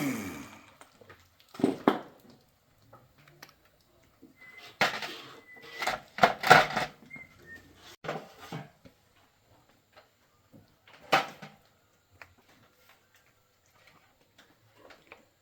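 Intermittent knocks and clinks of metal parts being handled, about five separate clatters spread out with quiet between them.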